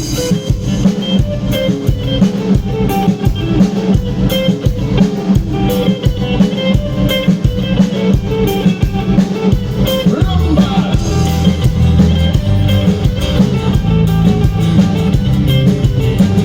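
Rock band playing a song's instrumental intro: guitar over a drum kit, with the low end growing heavier about ten seconds in.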